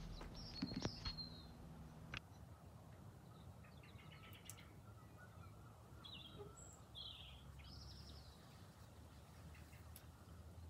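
Faint birds calling in a garden at dusk: a few scattered short, high chirps over a quiet background, with a few soft clicks in the first two seconds.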